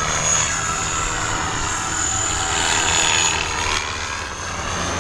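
Align T-Rex 550E electric RC helicopter in flight: a steady high whine from its brushless motor and gears over the whoosh of its 520 mm main rotor blades, with wind rumbling on the microphone.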